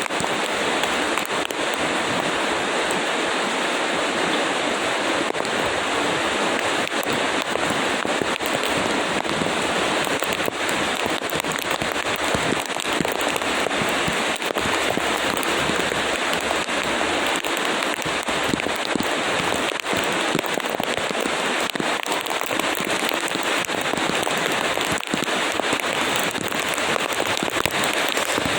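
Steady rain falling, an even hiss broken by many sharp ticks of individual drops striking a surface.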